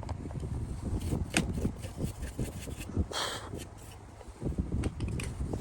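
Hands handling PC parts on a workbench: a run of light clicks and knocks, with a brief rustling scrape about three seconds in.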